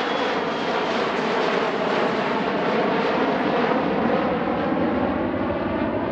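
Boeing 737 airliner's jet engines during a low display pass: a steady rushing engine noise that swells slightly and then eases off near the end.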